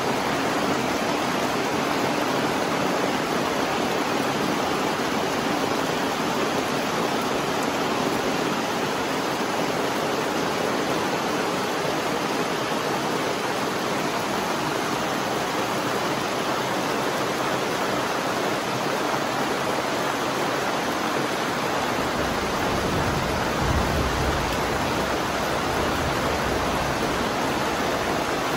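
Steady rainfall, an even hiss of rain with no change in level. A low rumble joins it about three-quarters of the way through.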